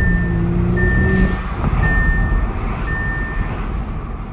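Audi S5's 3.0T turbocharged V6, heard from the cabin with an Injen cold air intake fitted: a steady engine note for about the first second ends in a whoosh of intake air, followed by a low rumble. Over it, a car chime beeps four times at about one beep a second.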